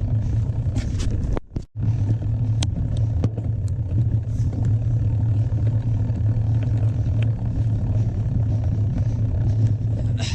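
Mountain bike being ridden over a rough trail: a steady low rumble with scattered clicks and rattles from the bike, plus a brief drop-out about a second and a half in.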